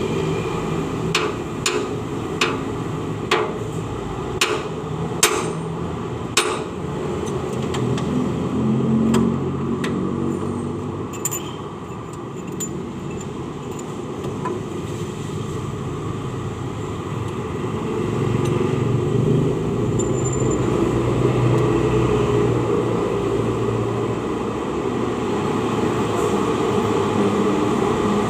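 A series of sharp metallic knocks, roughly one a second for the first six seconds, from hand tools striking metal while working on a 4BE1 diesel engine's cylinder head. A steady low rumble follows and grows louder toward the end.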